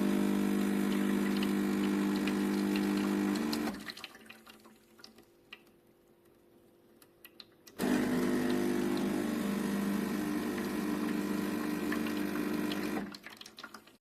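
De'Longhi Vintage Icona espresso machine's electric pump running with a steady hum, twice: for about four seconds, then after a short pause with a few faint ticks, again for about five seconds before stopping.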